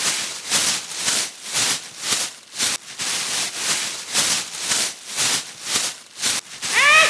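Plastic packet being crinkled and rustled in short repeated bursts, about two a second.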